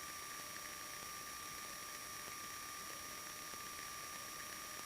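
Faint steady electrical hiss with a thin constant high whine from an aircraft intercom audio feed, no engine heard.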